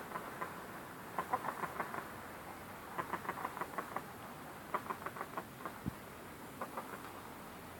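Shamo fighting chickens making short, quiet ticking sounds in quick runs of several at a time, a few runs in all.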